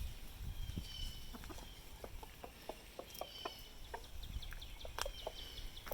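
Chickens clucking softly as they feed on vegetable scraps, with a quick run of short sharp clicks through the middle and high, thin bird chirps throughout.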